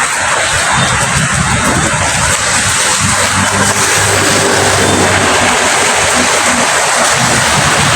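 Steady rain, a dense even hiss. A low engine drone sits underneath it from about two and a half seconds in.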